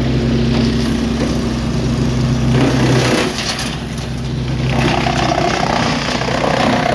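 Big wood chipper running. Its engine holds a steady hum for the first three seconds or so, then the hum drops away and a rougher, noisier sound takes over.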